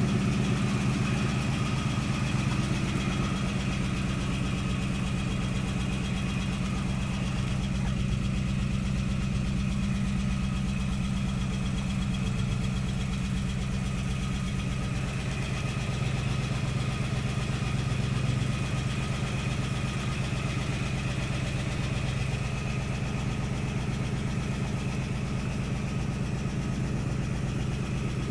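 1969 AMC Javelin's carbureted 290 V8 idling steadily on its first run after sitting about six months.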